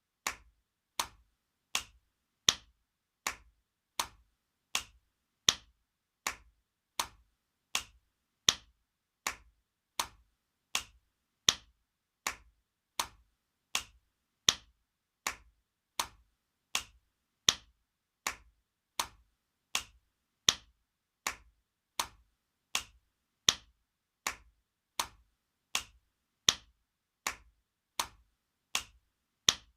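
Spanking sound effect: sharp slaps of a hand on skin, repeating steadily about every three-quarters of a second, with a louder slap roughly every three seconds.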